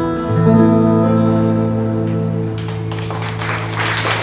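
Instrumental ending of a song: a guitar chord struck and left ringing. A noisy hiss builds up over it near the end.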